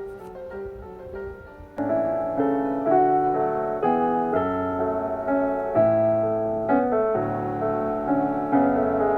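Background piano music: a quiet melody of single notes, then fuller chords from about two seconds in.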